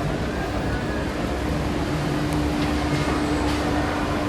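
Engine and hydraulic machinery of a giant mechanical elephant running: a steady hum over a low rumble.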